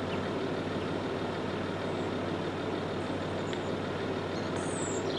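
A heavy motor vehicle, like a truck, running close by with a steady engine drone and road noise. A bird chirps briefly near the end.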